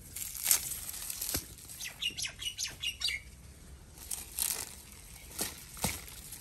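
A quick run of short, high bird chirps about two seconds in, among several sharp rustles and knocks.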